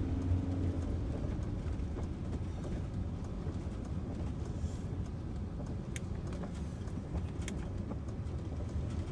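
Motorhome driving along a road, heard from inside the cab: a steady low engine and tyre rumble with a few brief clicks.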